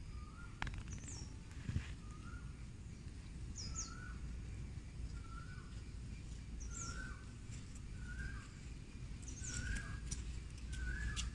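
Birds calling: one repeats a short call with a falling end about once a second, while another gives a thin, high call every few seconds, over a steady low background rumble.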